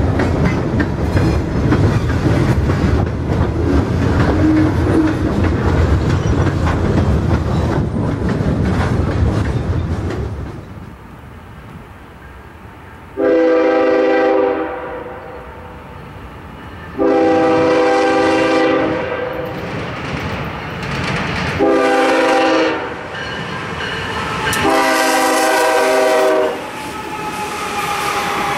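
Ashland Railway GP38 diesel locomotive and its train rumbling past, wheels clattering over the rail joints. After a cut, a BNSF freight train sounds its air horn in the grade-crossing pattern of long, long, short, long, over its engines and wheel noise as it approaches and passes.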